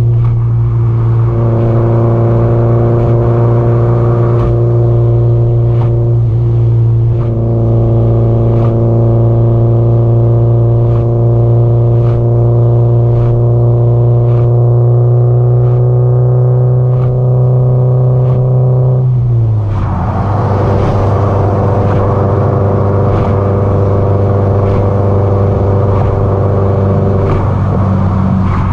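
Subaru Impreza WRX STI (GDB-E) turbocharged flat-four running through an aftermarket muffler while cruising at steady speed, a loud, even droning note. About two-thirds of the way through the note drops to a lower pitch and carries on steadily.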